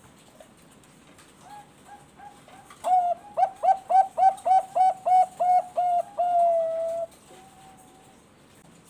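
Bangkok-strain zebra dove (perkutut bangkok) cooing its song. It starts with a few soft notes, breaks into a fast run of about a dozen loud, evenly spaced coos, and ends on one long held note.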